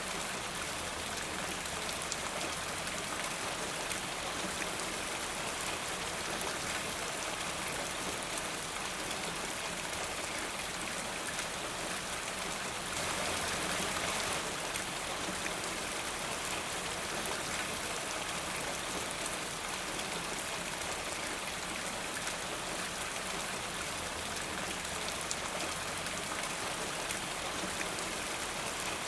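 Steady rainfall, a dense even patter of drops, swelling slightly for a moment about halfway through.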